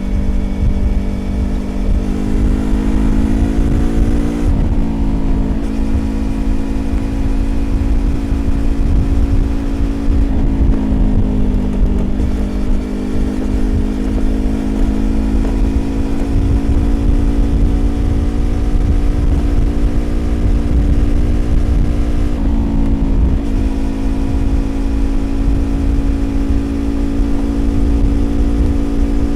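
Yamaha YZF-R25 parallel-twin engine running through a Prunus aftermarket exhaust while riding at speed. The revs climb steadily, drop sharply at shifts about four seconds in and again about 22 seconds in, and fall off briefly and recover around 10 to 12 seconds in. A low rumble runs underneath.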